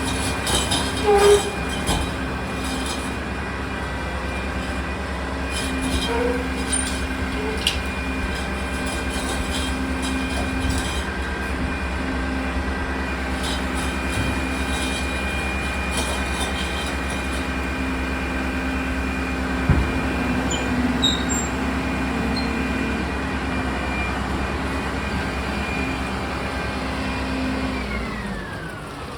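Mack garbage truck's diesel engine running steadily with a high whine over it, with a few clanks along the way. Near the end the whine and engine note glide down in pitch and fade as the truck winds down.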